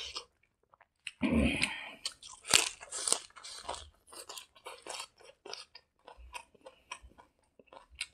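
Close-miked chewing and crunching of a mouthful of hand-eaten fried rice, with many short irregular crackles and clicks and a louder crunch about a second in.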